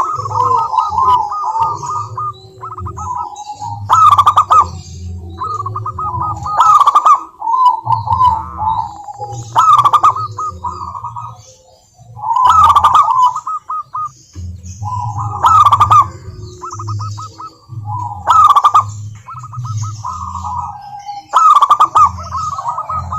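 Zebra dove (perkutut) song: repeated rattling, staccato coo phrases, a new phrase starting about every three seconds with a loud sharp note.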